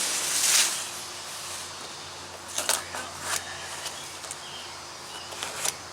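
A brief rustling hiss near the start, then a few scattered sharp clicks and knocks from parts being handled, over a steady low hum.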